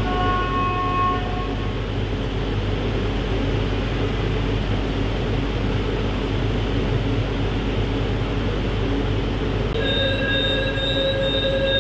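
Jakarta LRT light-rail train running, heard from inside the car: a steady rumble and rolling noise. A brief ringing of several tones comes at the start, and a high squeal of several tones sets in near the end.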